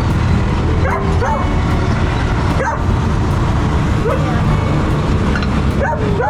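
A dog barking in short yelps, each falling in pitch, about six times over a steady low rumble.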